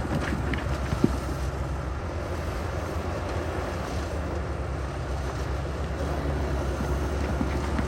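Heavy diesel earthmoving machinery running steadily, a low engine drone under a broad rumble, with one short sharp knock about a second in.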